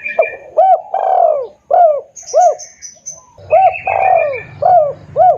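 Spotted dove (tekukur) cooing loudly as a lure call: a run of short, arched coos about every half second, with a longer, drawn-out coo twice. Higher, thin twittering from another bird falls between the coos, and a low steady hum comes in about two thirds of the way through.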